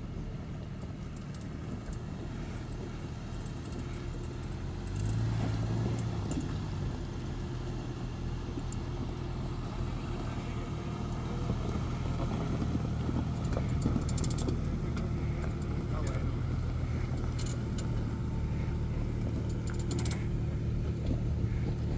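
Jeep engine running steadily at low revs, picking up about five seconds in, with a few scattered knocks and rattles.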